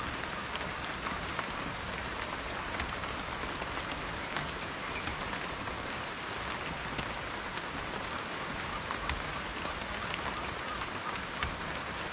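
Steady rain falling on a surface, with many separate raindrop ticks and patters scattered through an even hiss.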